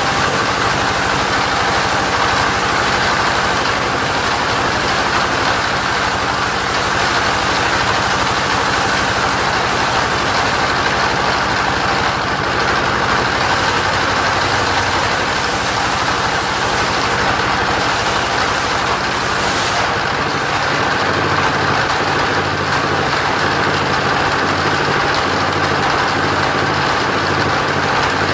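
Engine of a motorised saw running steadily, with a change in its low engine note about 21 seconds in.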